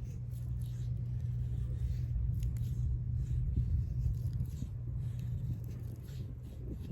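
Wind buffeting the microphone: a steady low rumble, with a few faint light clicks over it.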